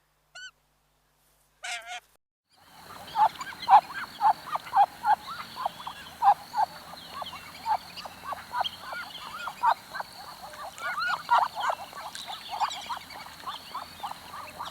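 A flock of waterfowl calling: after two brief single calls, many short honking calls overlap in a continuous chorus.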